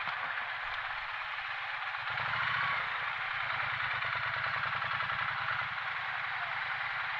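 Motorcycle on the move: a steady rush of wind and road noise with the engine's low running note underneath, which grows louder about two seconds in.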